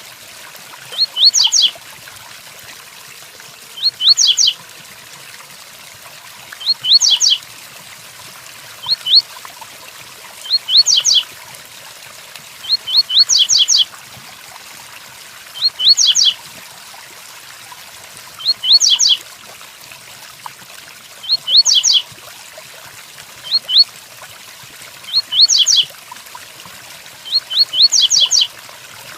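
Double-collared seedeater (coleiro) singing the 'tui-tuí' song: short phrases of three to five quick, rising, high whistled notes, repeated about every two to three seconds. A steady hiss of rain runs underneath.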